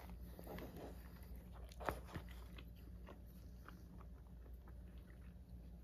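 Quiet eating sounds: soft wet chewing of soy-marinated raw fish and rice, with small clicks of wooden chopsticks against a plastic bowl. One louder click comes about two seconds in.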